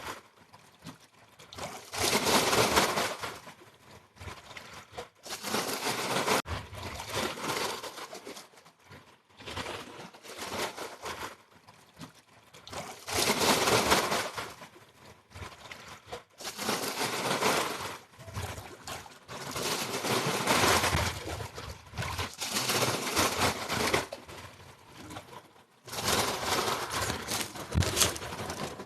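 Slow, deep breaths taken close to the microphone: a string of rushes of air, each lasting one to two seconds, with short pauses between them.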